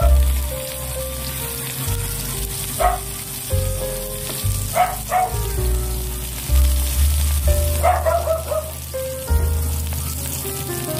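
Tofu cubes frying in shallow oil in a nonstick pan, with a steady sizzle, under background music. A few short, sharp sounds stand out now and then.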